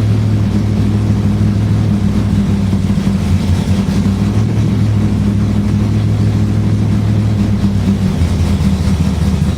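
Car engine idling steadily on a cold start after sitting unused for a long time.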